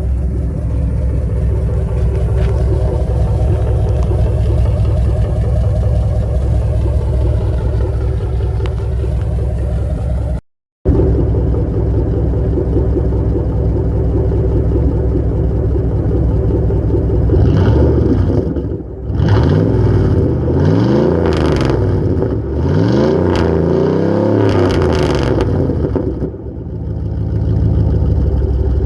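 2002 Dodge Ram pickup's engine running through a newly fitted custom exhaust: a steady low drone at first, then revving up and down several times in the second half, with the pitch rising and falling.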